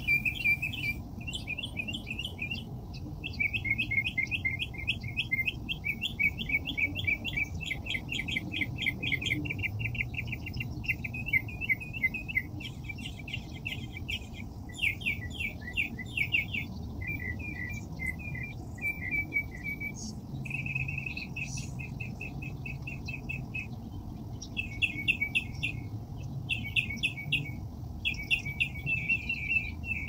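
A songbird singing: fast trills of repeated chirps in phrases of one to two seconds, with short pauses between them.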